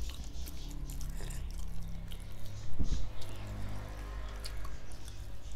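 Close-up chewing and eating sounds of steamed whole chicken (chargha) being eaten by hand, with scattered small clicks. A single thump about three seconds in is the loudest sound.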